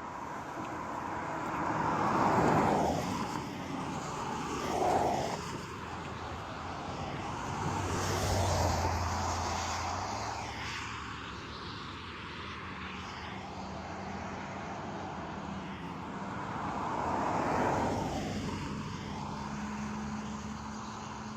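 Road traffic passing a flagging station: several vehicles go by one after another, the loudest about two seconds in and again near the end, with an engine hum in the middle.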